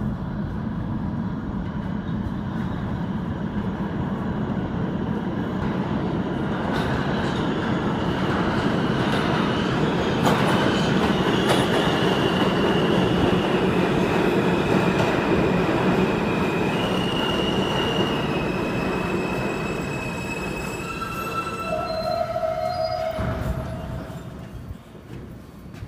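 R160A subway train running in and slowing to a stop, with a steady rumble and high-pitched wheel and brake squeals that shift in pitch as it decelerates. The noise falls away as the train halts near the end.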